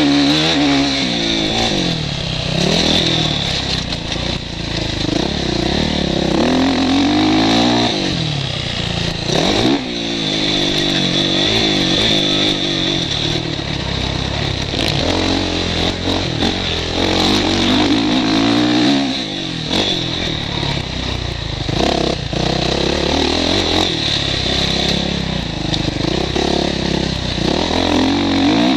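Motocross bike engine heard from the rider's helmet, revving up and falling back again and again as it is ridden around the track, with scattered short knocks and a steady hiss.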